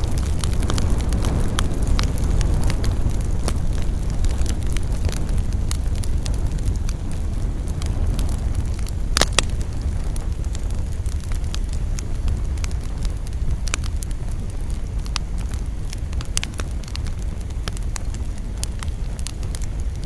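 Wood campfire burning, with a steady low rumble and frequent crackles. A louder sharp pop comes about halfway through.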